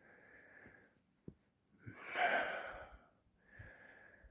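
A man breathing heavily: three slow breaths, the loudest about two seconds in.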